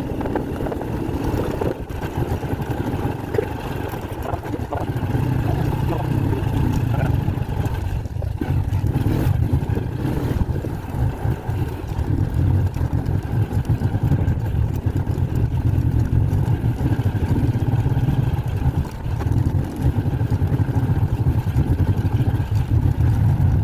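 Steady low rumble of a moving road vehicle's engine and road noise, a little louder from about five seconds in.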